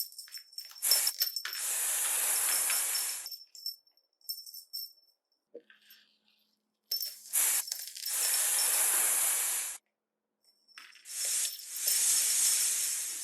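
Snake hissing: three long hisses of about two to three seconds each, each cutting off sharply, with short clicking, rattling bursts between them.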